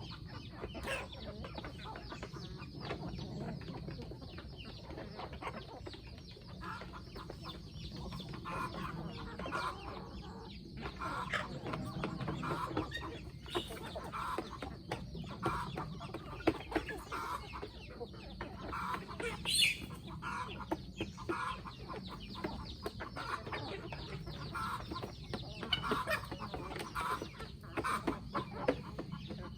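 Flock of free-range chickens clucking steadily, with many short calls overlapping and one louder, higher squawk about two-thirds of the way through.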